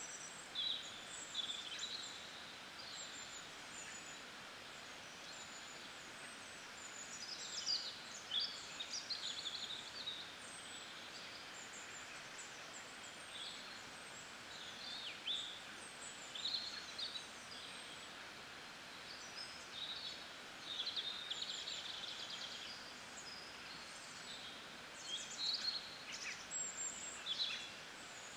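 Nature-sounds background of small birds chirping and calling in quick high notes, over a steady hiss.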